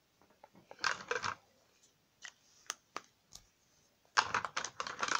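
Colouring pens tapping and clicking in quick runs of sharp taps, in three short clusters about a second in, in the middle, and near the end.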